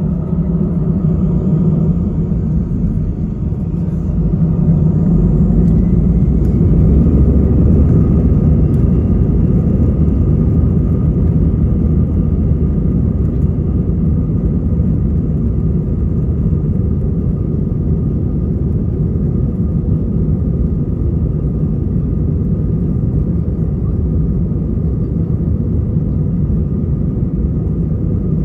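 Airbus A320 jet engines heard from the passenger cabin during takeoff: a rising whine about three seconds in as the engines spool up, then a loud, steady rumble with a thin, high fan tone.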